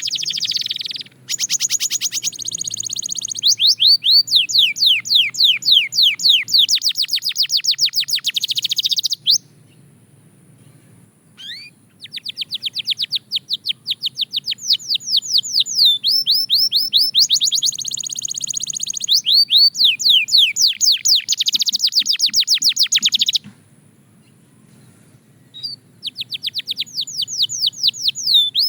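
Canary singing long, loud phrases of rapidly repeated sweeping high notes, several a second, in trills and rolls. The song breaks off twice for a pause of two to three seconds before starting again.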